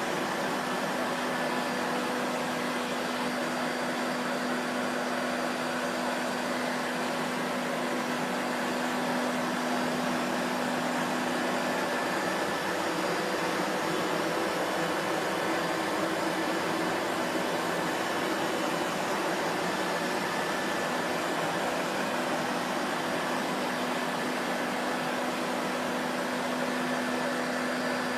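Vacuum cleaner running steadily: an even rushing whoosh of air with a faint motor hum, unchanging throughout.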